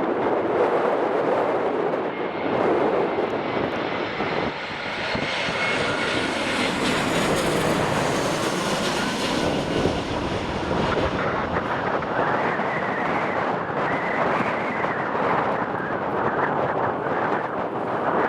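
Airliner engines on landing approach, a steady rushing engine noise with a faint whine that grows brightest about halfway through as the aircraft passes closest, then eases. Gusty wind buffets the microphone underneath.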